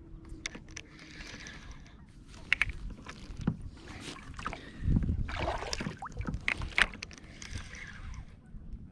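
Knocks, clicks and swishes of water around a fishing kayak, with a burst of low wind rumble on the microphone about five seconds in.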